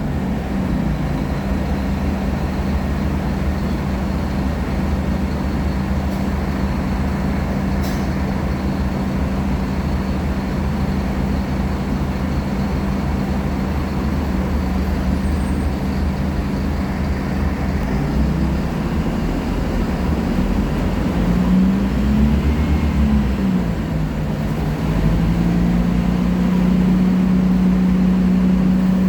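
Scania K310IA articulated bus's five-cylinder diesel engine running steadily under way. About three-quarters through, its pitch rises and falls, then it settles into a steady, slightly louder note.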